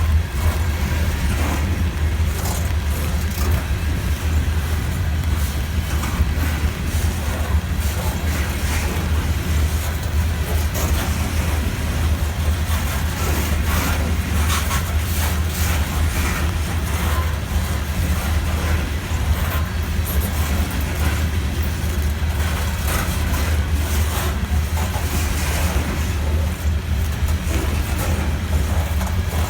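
Norfolk Southern freight train rolling past: a steady heavy low rumble with irregular clicks and clatter of wheels on the rails.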